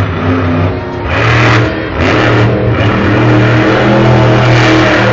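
Monster truck engine revving loud in surges, with two sharp bursts of throttle about one and two seconds in before holding at high revs.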